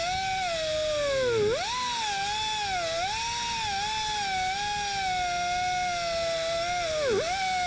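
A handheld power tool's motor whining at high speed on a stud. Its pitch wavers and dips sharply twice as the tool is loaded, about a second and a half in and again near the end.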